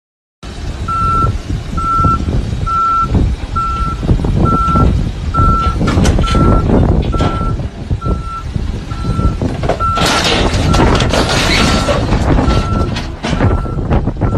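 Heavy vehicle's reverse alarm beeping a little more than once a second over its engine running, with a loud hiss joining for a couple of seconds about ten seconds in.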